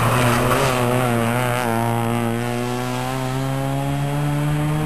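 Rally car's engine revving hard as the car powers through a bend and drives off, its note wavering briefly and then climbing slowly as it accelerates away.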